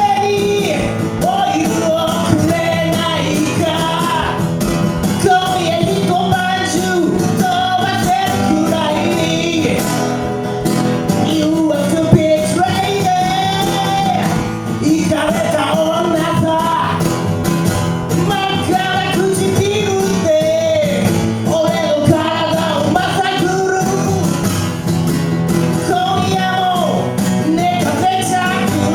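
Live performance of an original song by a two-piece band: a man singing a melody over guitar accompaniment.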